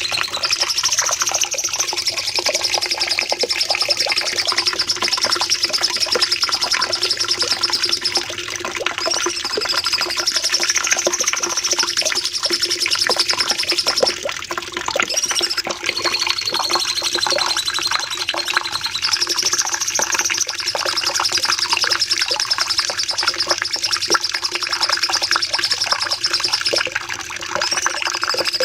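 Cucak cungkok songbird singing long, rapid high-pitched trills (the 'nembak panjang' style), each held for several seconds with short breaks between them, over a steady background hiss.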